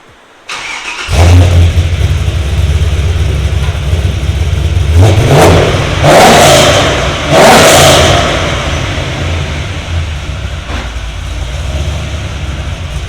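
LS2 6.0-litre V8 in a 2006 Nissan 350Z, breathing through a new custom exhaust, cranks and fires about a second in, then settles to idle. It is revved three times between about five and eight seconds in and returns to a steady idle.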